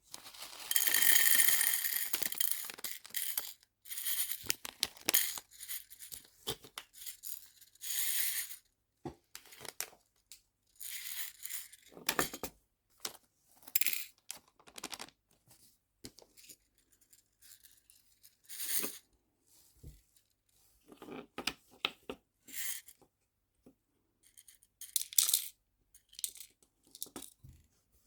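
Small nail-art charms and their plastic packaging being handled and sorted by hand. A loud rustling lasts about three seconds near the start, then comes a run of scattered small clicks, rattles and rustles.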